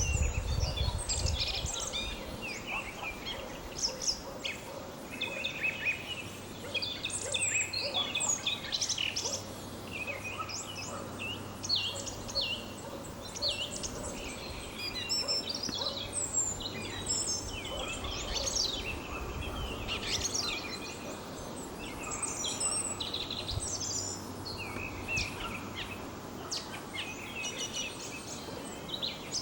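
Song thrush (Turdus philomelos) singing: a steady stream of short, varied, high whistled and chirping phrases with little pause between them. It is the male's spring territorial song.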